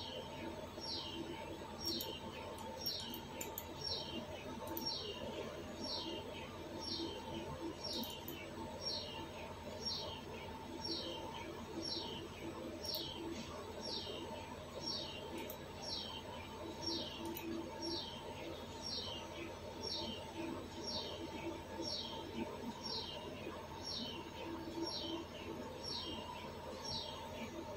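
A bird repeating a short, falling chirp about one and a half times a second, faint, over a steady electrical hum with a thin constant whine.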